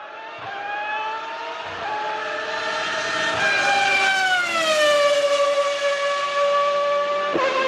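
Formula 1 engine at high revs with a high-pitched scream, climbing in pitch through quick upshifts about every second and a half. About halfway through the pitch drops and then holds steady, with a brief break near the end.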